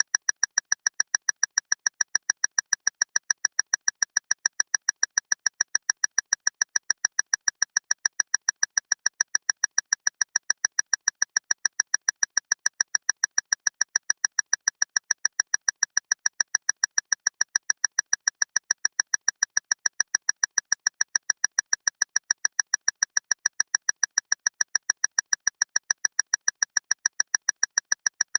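Clock ticking loudly and relentlessly, about five sharp, ringing ticks a second in an even, unchanging rhythm.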